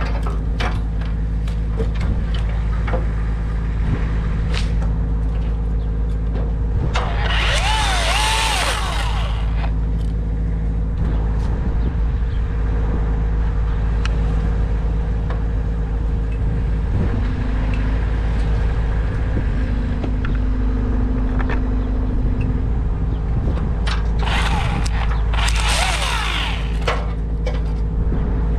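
A large engine running steadily, with two loud hissy bursts of a couple of seconds each, about seven and twenty-four seconds in.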